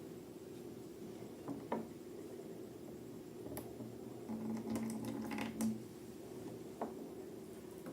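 Slime being handled and pressed by hand, giving a few scattered sticky clicks and squelches, with a cluster of them about five seconds in, over a low steady room hum.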